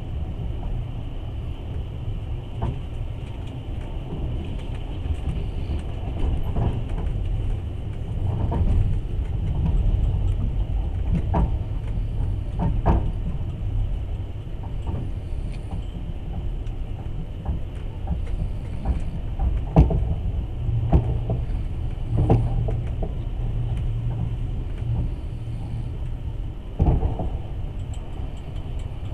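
Passenger train running on the rails, heard from inside the carriage: a steady low rumble broken by about nine irregularly spaced sharp knocks of the wheels, the loudest about two-thirds of the way through.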